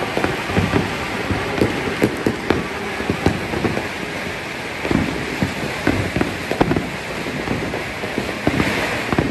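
Many fireworks and firecrackers going off at once: a dense, continuous crackle of small pops with scattered louder bangs.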